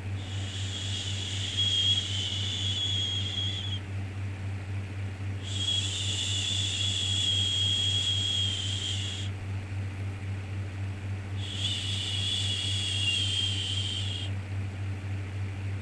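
Long, even 'shhh' shushing sounds for soothing a baby, three in a row, each held about three to four seconds with short pauses between, over a steady low hum.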